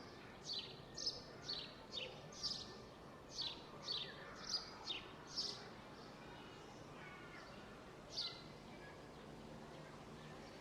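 A songbird calling with a run of short, high chirps that drop in pitch, about two a second, then a single chirp a few seconds later. Behind it is a steady, low background murmur of outdoor ambience.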